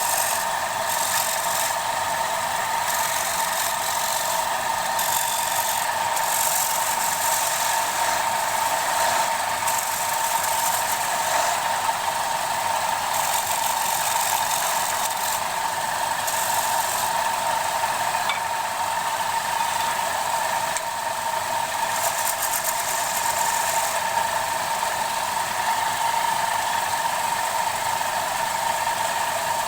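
Wood lathe running steadily with a constant whine, while a turning tool works the spinning wooden bowl, making a hiss that swells and fades every second or two.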